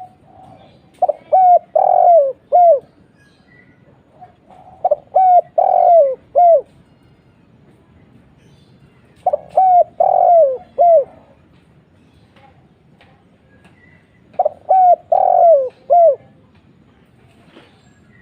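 Spotted dove cooing: four phrases, each a quick run of four or five low, deep coos, repeated every four to five seconds.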